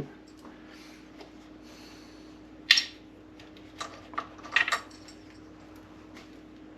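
Small hard clicks and clatters of parts being handled while a coffee maker's water sensor is swapped: one sharp click about two and a half seconds in, then a cluster of lighter clicks a second later, over a faint steady hum.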